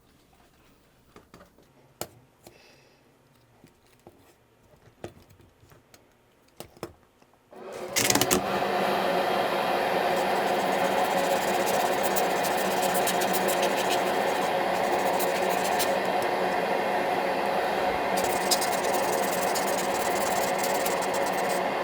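Light clicks and taps of small parts being handled, then about eight seconds in a small motor starts and runs steadily and loudly.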